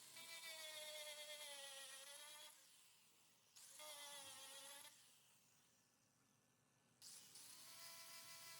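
A small high-speed electric power tool whining in three bursts, switched on and off. The pitch sags a little toward the end of the first two bursts, as if under load.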